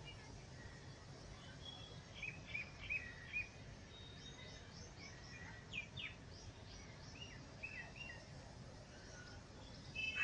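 Small birds chirping in quick series of short calls, one run about two seconds in and another about six seconds in, over faint steady outdoor background noise.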